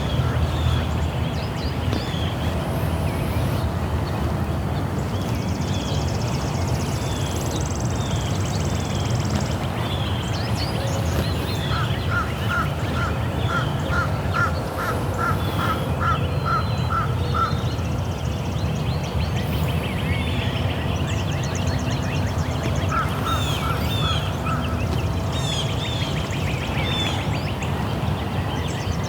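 Morning birdsong outdoors: many birds chirping, with one bird giving a quick run of a dozen or so repeated notes near the middle and a shorter run later, over a steady low rumble.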